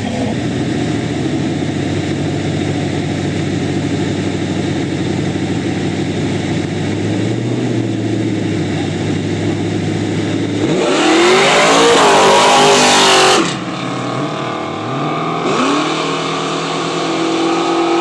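Two street-race cars' engines rumbling at idle, then launching at full throttle about eleven seconds in, revving up through the gears with a loud rush as they pass. The revving goes on more distantly, with another climb after a shift.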